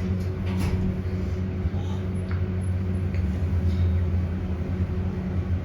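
Metro station elevator travelling down between levels: a steady low hum with a fainter steady higher tone, and a couple of light clicks.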